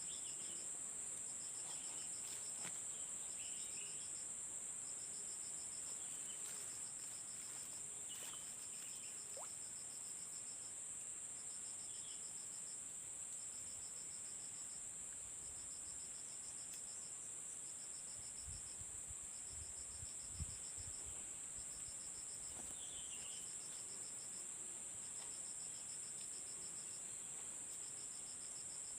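Insects calling: a steady high-pitched drone with a pulsed, cricket-like buzz over it in short trains that repeat about once a second.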